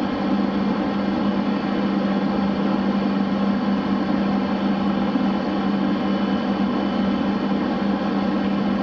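Steady electrical hum with a constant low tone over fan hiss, from E6 Komachi and E5 Hayabusa Shinkansen trainsets as the E6 creeps slowly up to couple with the E5.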